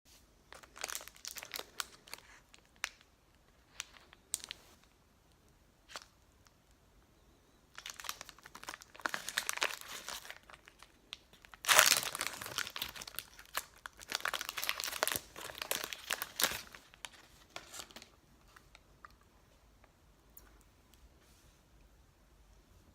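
Protein bar's plastic wrapper being crinkled and torn open: scattered crackles at first, then denser crinkling with the loudest tearing burst about twelve seconds in, and more crinkling after it.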